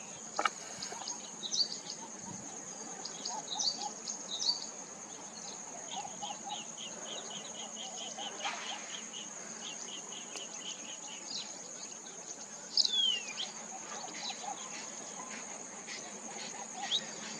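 Steady high-pitched drone of insects, with scattered short bird chirps over it. There is a run of quick chirps about four a second in the middle, and one louder call that falls steeply in pitch later on.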